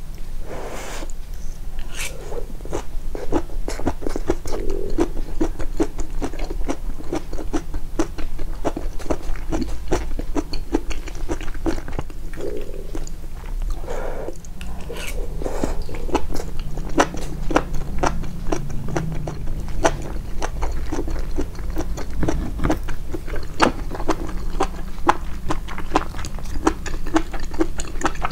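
Close-miked chewing and biting of food, a meal of grilled mutton and rice: a dense, continuous run of wet, irregular clicks and crunches, emphasized so the mouth sounds stand out.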